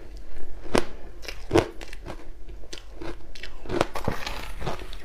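Close-miked crunching and chewing of crushed ice with passion fruit: sharp bites, the loudest a little under a second in and again about a second and a half in, with smaller crackles between and another loud crunch near the end.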